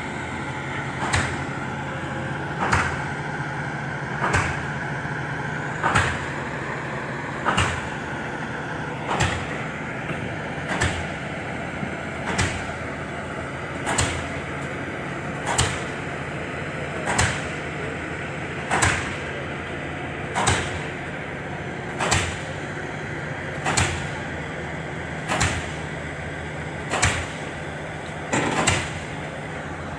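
Excavator running steadily, with a sharp knock repeating at an even pace, about once every second and a half.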